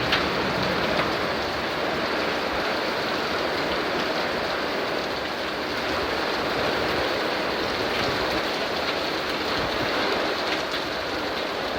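Heavy downpour: steady, dense rain with a few separate drop ticks.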